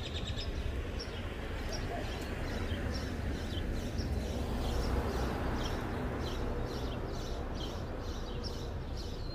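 Small birds chirping, short high chirps repeating about twice a second, over a steady low outdoor rumble.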